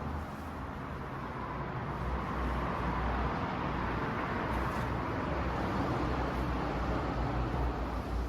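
Suzuki Gixxer 150's single-cylinder engine running steadily at low revs, a little louder from about two seconds in.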